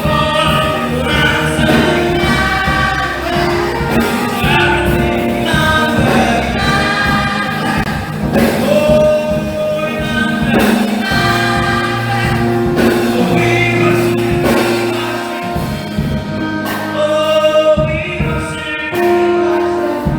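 Church choir singing a gospel Christmas song with instrumental backing, sung notes over held bass notes.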